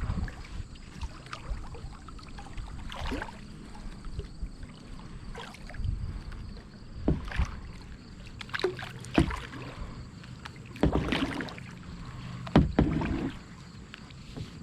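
Kayak paddling: paddle blades splashing into the water with hollow knocks, at an uneven rhythm of roughly one stroke every second or two.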